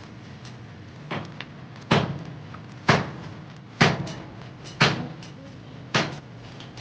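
Heavy knocks repeated about once a second, six in all, each with a short ringing tail; the first is lighter than the rest.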